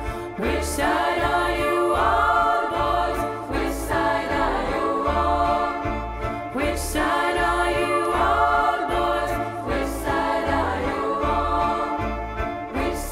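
A choir singing in several voice parts with accompaniment, over a recurring low pulse.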